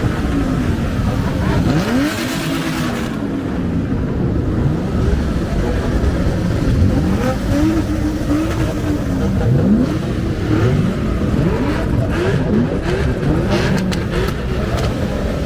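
Several car engines revving together in a group rev-off. Many overlapping revs rise and fall in pitch over a steady, loud engine din.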